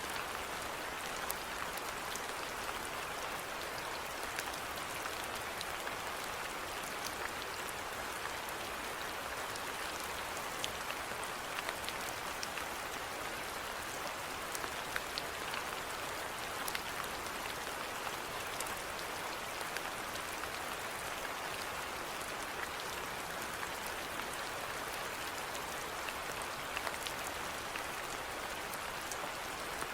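Steady rainfall, an even hiss with many individual drops ticking sharply on a surface throughout.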